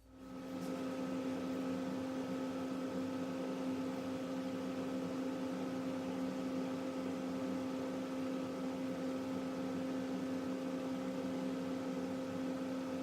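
An electric motor starts up, reaches speed within about a second, and then runs steadily with an even hum.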